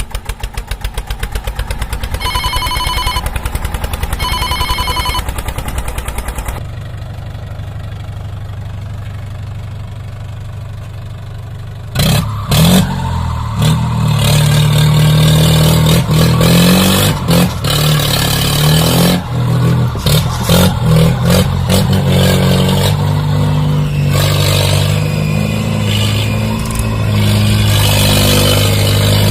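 Vehicle engine sounds: a fast, even chugging with two short horn honks, then a quieter steady hum, then from about halfway a loud engine revving up and down under load.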